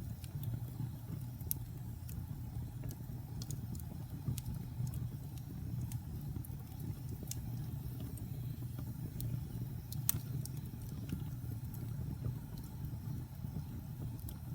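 Wood fire burning in a fireplace: a steady low rumble of flames with irregular sharp crackles and pops from the burning logs, one louder pop about ten seconds in.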